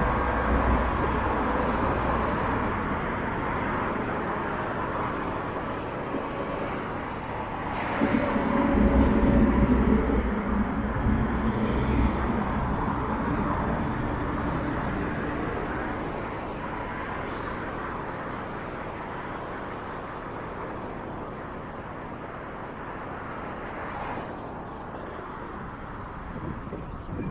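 Steady city road traffic along a busy downtown street. A heavier vehicle passes about a third of the way in and is louder and lower for a few seconds, then the traffic noise eases off.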